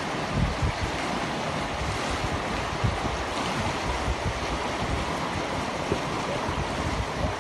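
Steady rush of flowing water and wind, with gusts buffeting the microphone in occasional low thumps.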